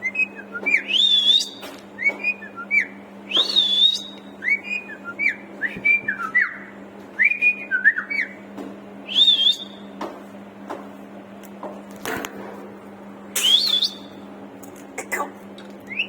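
Indian green parrot (rose-ringed parakeet) whistling: a long run of short, clear whistled notes that swoop up and down in pitch, in quick bouts with brief pauses, over a steady low hum.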